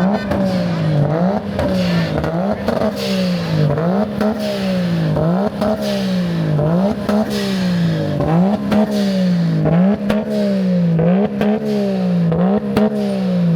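Car engine revved in repeated quick throttle blips, about one every second, each jumping up in pitch and sliding back down, with crackles from the exhaust.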